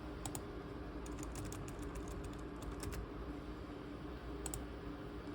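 Typing on the ThinkPad T23 laptop keyboard: a quick couple of keystrokes, then a run of keystrokes for about two seconds and two more near the end, over a steady low hum.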